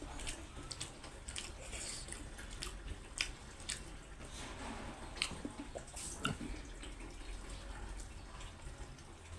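Close-up mouth sounds of a person eating rice and pork curry: chewing with wet lip smacks and sharp mouth clicks at irregular intervals.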